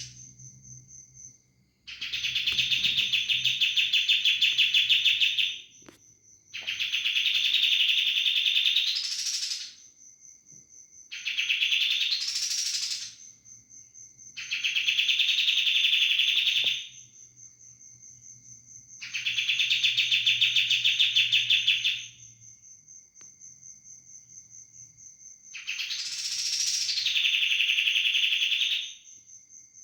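Kapas tembak songbird giving loud, rapidly pulsed buzzing 'bren' rolls that copy a bren cicada: six bouts of two to three seconds each, several ending in a rising sweep, with a faint steady high whine between them.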